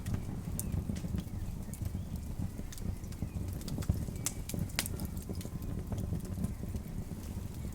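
Wood campfire crackling, with scattered sharp pops (a loud one about five seconds in) over a steady low rumble.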